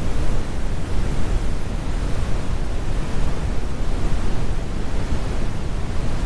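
Steady synthesized brown noise: an even, deep rumble with most of its weight in the low end and little hiss. It runs unchanged with no events.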